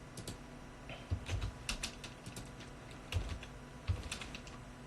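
Computer keyboard being typed on: irregular, scattered keystroke clicks, a few landing with a heavier thump.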